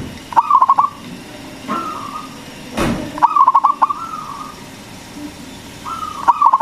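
Zebra dove (perkutut) cooing its song. Each phrase is a short rising note followed by a quick run of stuttering coos, repeated three times. There is a brief thump a little before the second phrase.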